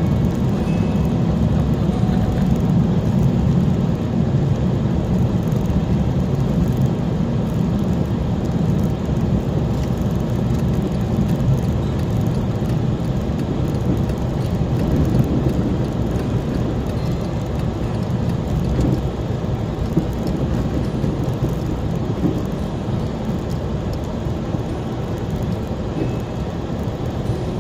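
A car being driven: steady low road and engine rumble at an even level.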